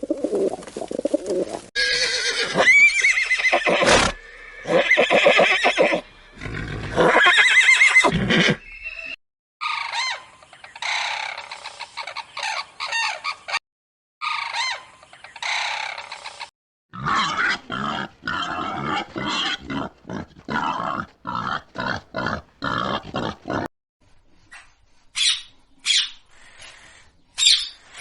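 A string of short animal-call clips cut one after another: loud calls with pitch glides in the first several seconds, a run of quick repeated calls in the second half, and brief high chirps near the end.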